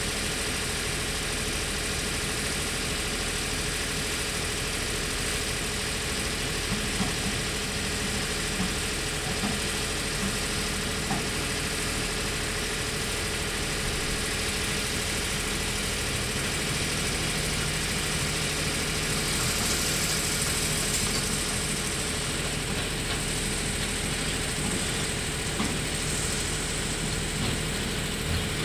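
Hydraulic excavator's diesel engine running steadily, with a few light knocks and a rise in high hiss about twenty seconds in.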